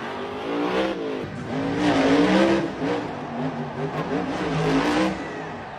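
Monster truck engine revving hard, its pitch climbing and dropping again and again, loudest about two seconds in, then falling away about five seconds in.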